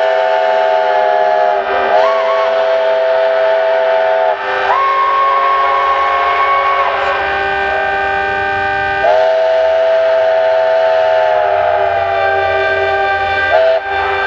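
Several locomotive horns and whistles sounding together in long overlapping blasts. One steady tone is held throughout, while other chords stop and start again every few seconds, each with a short slide in pitch.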